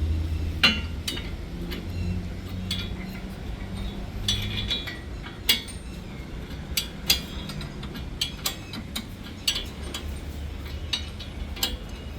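Hand tools clinking sharply and irregularly against steel nuts and bolts, about a dozen clinks, as the bolts of a tractor bumper are tightened, over a low steady hum.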